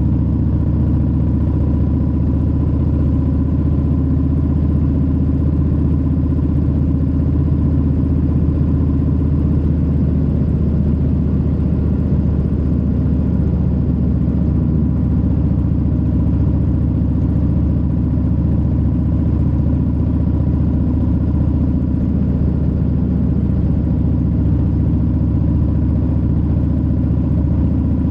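Harley-Davidson Low Rider S's Milwaukee-Eight 117 V-twin running steadily at an even engine speed, a deep, constant exhaust note with no revving.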